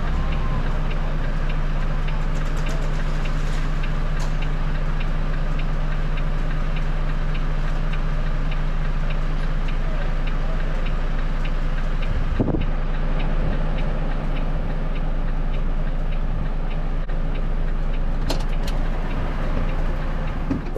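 Volvo FE 320 lorry's diesel engine running steadily, with a regular light ticking about two to three times a second over it.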